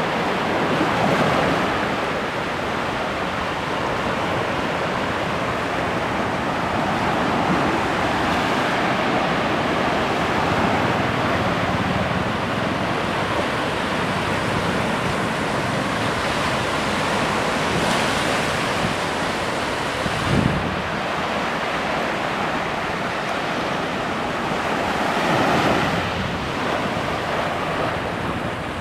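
Ocean surf breaking and washing in steadily, with wind buffeting the microphone. There is a short low thump about two-thirds of the way through.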